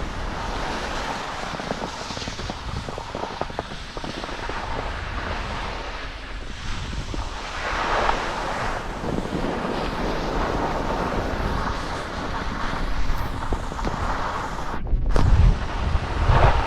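Wind rushing over the microphone and skis scraping over snow during a downhill run, with heavier low buffeting in the last couple of seconds.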